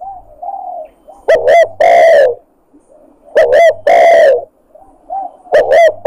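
Spotted dove (tekukur) cooing, a recorded hunting lure call: a phrase of two short notes then one long drawn-out note, repeated three times about two seconds apart, with fainter coos between. It is played loud enough to clip.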